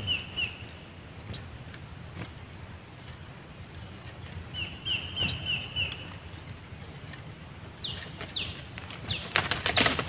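A small bird fluttering its wings while stuck to a lime-coated twig, with rustling that gets louder near the end. A quick run of about five high chirps sounds twice, about five seconds apart, and two short falling whistles come about eight seconds in.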